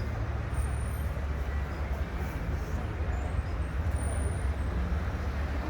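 Steady low rumble of vehicle engines under a constant wash of background noise.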